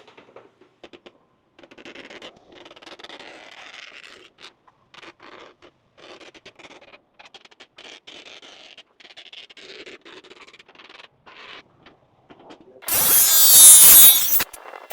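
Faint, intermittent scraping and scratching, in short irregular stretches. Near the end, a much louder sound with shifting pitches breaks in.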